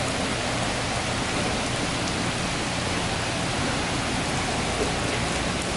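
Heavy thunderstorm rain pouring down steadily, an even dense hiss.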